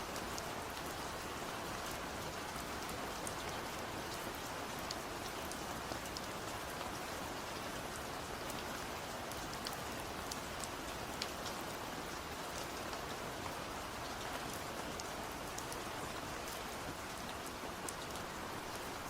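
Steady rain falling, an even hiss with scattered sharp drips of individual drops hitting a surface.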